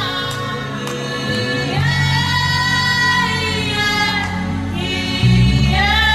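A man humming a slow gospel worship melody in long held notes that slide from one pitch to the next, over low sustained accompaniment notes that change about five seconds in.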